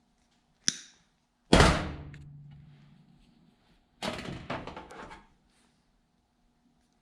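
Tools and parts handled on a work surface during wire splicing: a sharp click, then a heavy thunk with a brief low ring, then a short clatter of small knocks about four seconds in.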